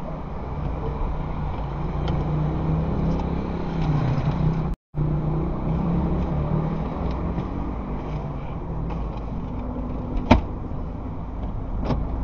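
Car engine running, heard from inside the cabin as a steady low hum. The sound drops out for a moment about five seconds in; a sharp click comes about ten seconds in and a fainter one near the end.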